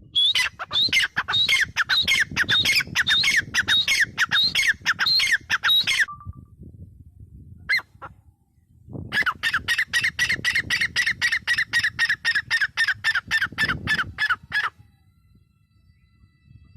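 Grey francolin calling: two long bouts of fast, evenly repeated harsh notes, several a second, with a pause of a few seconds between them.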